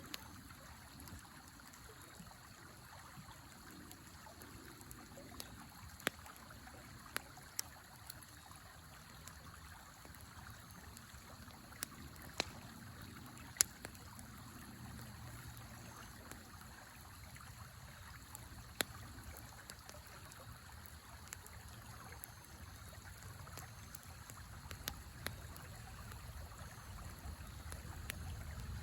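Campfire crackling, with a dozen or so sharp pops at irregular intervals, over the steady rush of a river.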